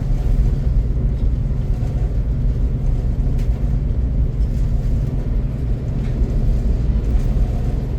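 Steady low rumble of a passenger train running at speed, heard from on board, with a few faint ticks from the track.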